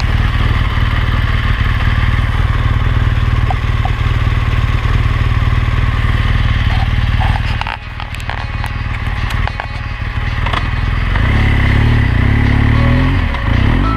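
BMW R 1200 GS LC's boxer-twin engine running under way, with a heavy low rumble. The sound drops briefly about eight seconds in, then the engine revs up and down near the end.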